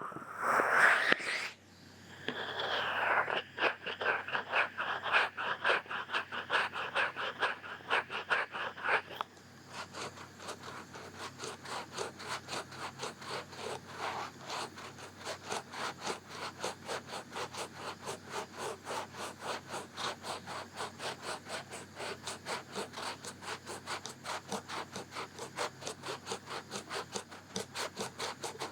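Rhythmic scratching on the ear of an ASMR microphone, in even repeated strokes. About nine seconds in the strokes turn softer and quicker.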